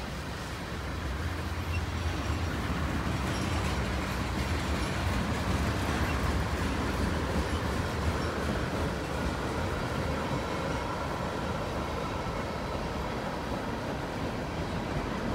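A freight train's cars rolling past: the steady rumble and rattle of steel wheels on the rails.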